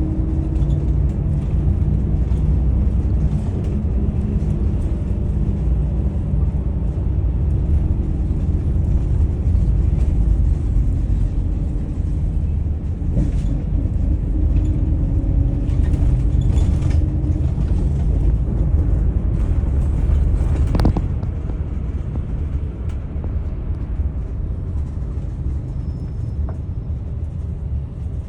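Daewoo FX116 bus engine running under way, a heavy steady rumble whose pitch rises and falls as the bus accelerates and eases off. A single sharp knock comes about 21 seconds in, and the engine runs quieter after it.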